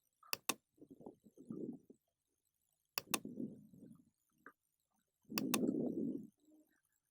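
Computer mouse clicking: three quick pairs of sharp clicks, about two and a half seconds apart, with dull low rubbing noise in between.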